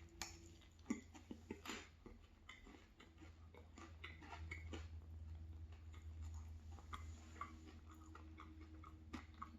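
Faint chewing of soft, fluffy chocolate cranberry bread: scattered small mouth clicks and ticks, a few sharper ones in the first two seconds, over a steady low hum.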